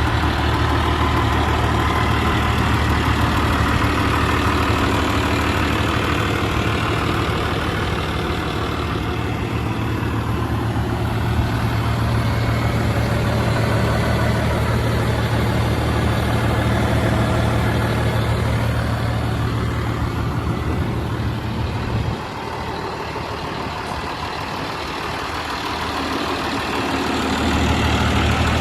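Diesel engine of a 1999 New Holland 8160 tractor idling steadily with a low drone. Near the end the low rumble drops away for a few seconds, then comes back.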